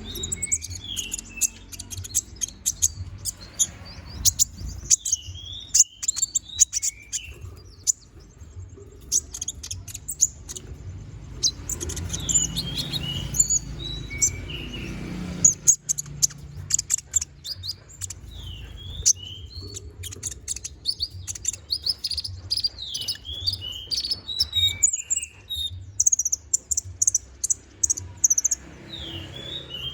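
A konin (kolibri ninja), a small sunbird, singing a busy, fast song of rapid high chirps and clicks mixed with short sliding notes, with hardly a pause. A low steady rumble runs underneath.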